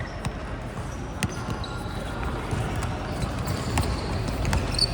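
Basketball bouncing on the court during play, a sharp bounce every half second to second, with short high sneaker squeaks near the end over a low murmur of voices.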